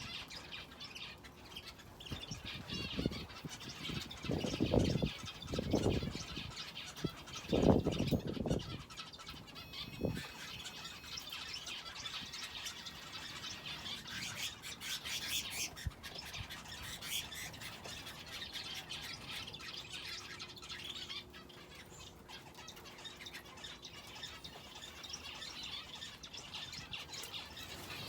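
Aviary finches and a canary chirping and twittering continuously, many small calls overlapping. In the first ten seconds there are about five low muffled rumbles or thuds, louder than the birds.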